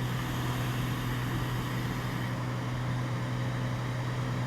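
Cessna 206 Stationair's piston engine and propeller droning steadily in flight, heard from inside the cabin, with a strong constant low hum.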